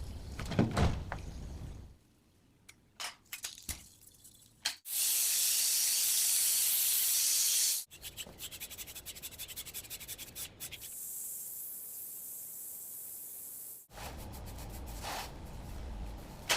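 A run of short workshop sounds from restoration work on a rusty truck. Two loud, steady spraying hisses of about three seconds each, a few seconds apart, are the loudest part. Between them and around them come stretches of rapid clicking and low rumbling with knocks.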